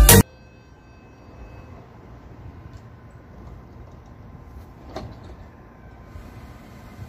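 The last beat of electronic music cuts off, leaving a faint, steady low rumble from a GO Transit bilevel commuter train standing at the platform. One short click comes about five seconds in.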